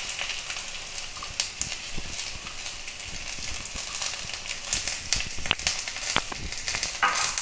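Potato wedges and freshly added chopped onion frying in hot oil in a kadai: a steady sizzle with scattered crackles and pops.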